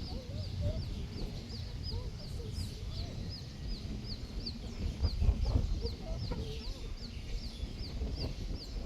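Baby chicks peeping in a steady run of short high chirps, about three a second, while the hen clucks low now and then. Wind rumbles on the microphone underneath.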